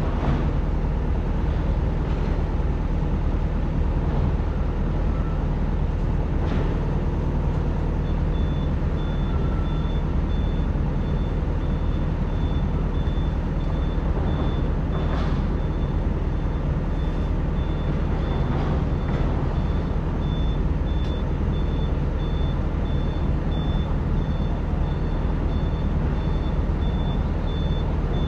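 Excavator's diesel engine running steadily under digging load, with a few knocks from the work. About a quarter of the way in, a repeating high-pitched warning beep starts and keeps going.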